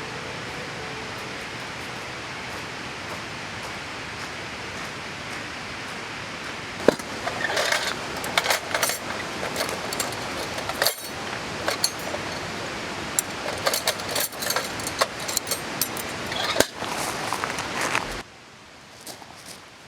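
Steady outdoor hiss, then from about seven seconds in a busy run of clinks and rattles as small metal items, likely camping cookware, are handled. The sound cuts off suddenly near the end.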